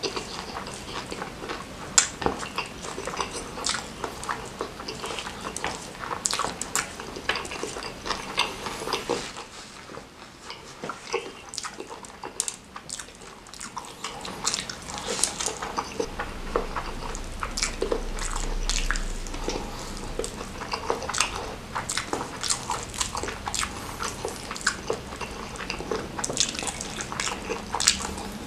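Close-up wet chewing and lip smacks of someone eating crushed fried chicken and fried instant noodles by hand, a dense run of short clicks and squelches, briefly quieter around ten seconds in.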